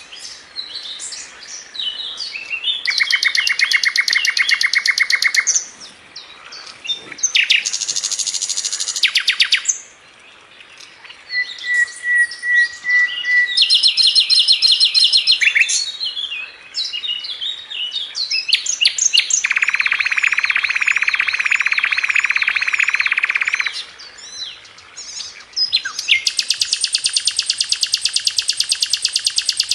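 Sikatan londo (hill blue flycatcher) singing in the fast, tight trilling style that bird keepers call 'spit rapet'. Its phrases are rapid, even rattling trills two to four seconds long, the longest near the middle and another running on at the end. Between them come short sharp chirps and a brief whistled note.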